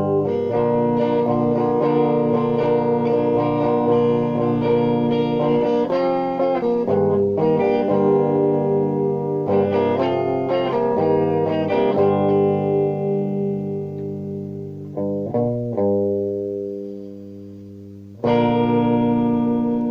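Guitar music: sustained, effects-laden chords that change every second or two, fading away and then ending on one last struck chord left to ring out.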